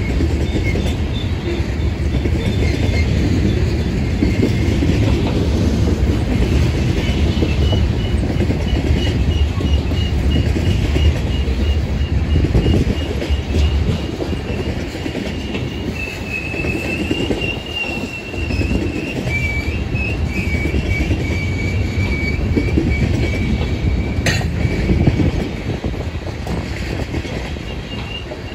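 Freight train rolling past, a steady heavy rumble of its wheels and cars, with high-pitched wheel flange squeal that wavers up and down in pitch. One sharp click near the end.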